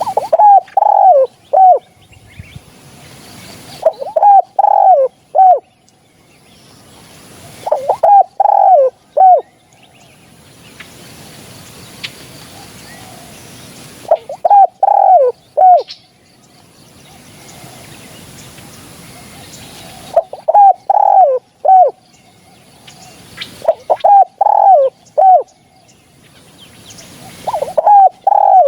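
Spotted dove cooing: short phrases of three or four loud coos, repeated about seven times at gaps of four to six seconds.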